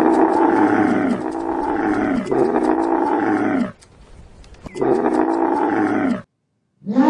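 An animal calling: three pitched calls of about a second each in quick succession, then a pause and a fourth, each falling in pitch at its end.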